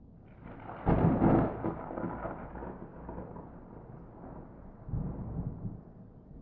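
Thunder: a sharp crack about a second in that rolls off into a long rumble, with a second swell of rumbling near the end.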